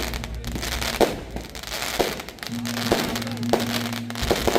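Fireworks going off, with sharp bangs about once a second and a quick cluster near the end, over music playing underneath.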